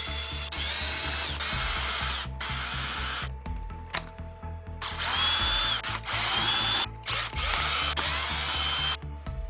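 Cordless drill motor running in four short bursts of one to two seconds each, its whine rising as it spins up and then holding.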